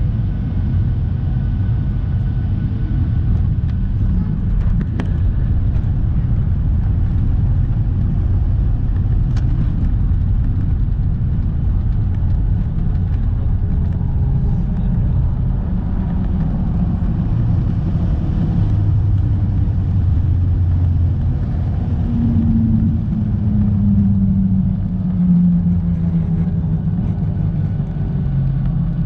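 Airliner cabin noise during landing: a steady low rumble of the engines and airflow, with a couple of faint clicks. Near the end a low hum steps down in pitch.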